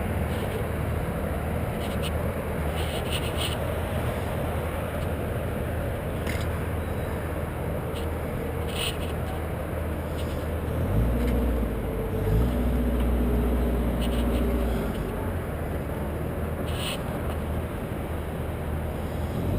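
An engine running steadily, its note getting louder and heavier from about eleven to fifteen seconds in, with a few faint ticks over it.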